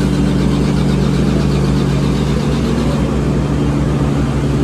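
An engine idling steadily, a constant low hum with no change in pitch.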